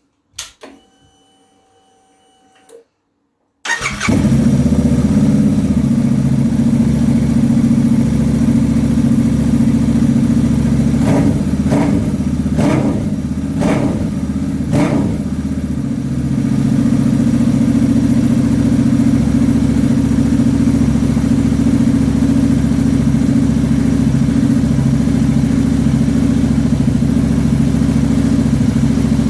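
Royal Enfield Interceptor 650's parallel-twin engine, breathing through Norman Hyde chrome pea-shooter silencers, being started: a click and a short steady whine at switch-on, then the engine catches a few seconds in and idles. It is blipped four times around the middle, then settles back to a steady idle.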